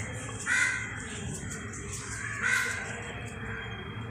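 Two short, harsh bird calls about two seconds apart, over a low steady hum.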